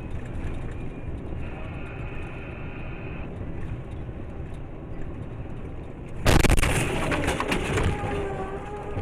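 Steady road rumble inside a moving car with a brief high tone, then about six seconds in a sudden loud crash of a vehicle collision, followed by wavering pitched tones.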